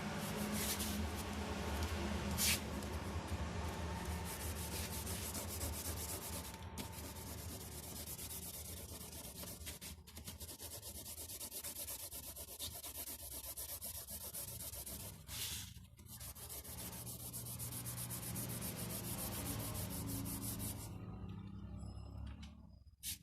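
Drawing tool rubbing on paper in rapid back-and-forth shading strokes, with a steady low hum underneath; the strokes stop near the end.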